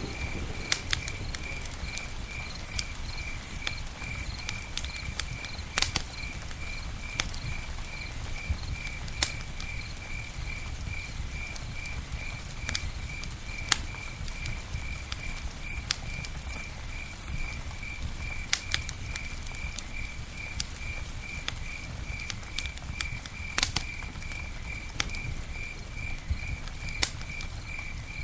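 Campfire crackling: sharp pops and snaps scattered irregularly over the low, fluttering rumble of the burning wood. A cricket chirps in a fast, even rhythm at one high pitch behind the fire.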